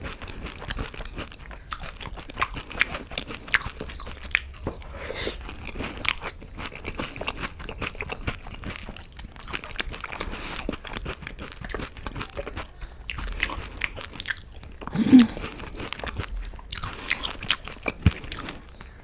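Close-up chewing and biting of dahi golgappa, crisp hollow puri shells filled with yogurt and green chutney, giving many small, irregular crunches.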